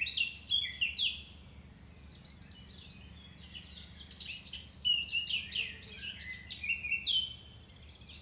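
Songbirds chirping and singing in quick runs of short notes over a faint steady low hum. There is a short lull about two seconds in, then the song grows busier again.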